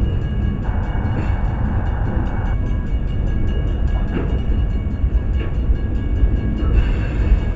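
Freight train's boxcars rolling past: a steady low rumble of steel wheels on the rails, with a couple of sharp clacks about four and five and a half seconds in.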